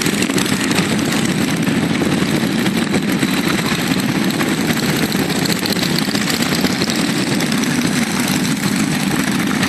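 Many motorcycle engines running and idling together in a large group, blending into a loud, steady, unbroken rumble.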